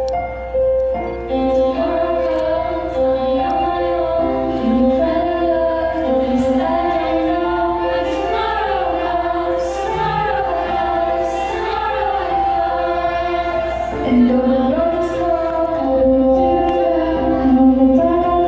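A choir singing, several voices held together in harmony.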